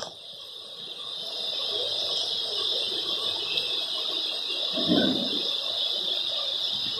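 Heavy rain falling steadily, a hiss that builds over the first two seconds. A brief low thud comes about five seconds in.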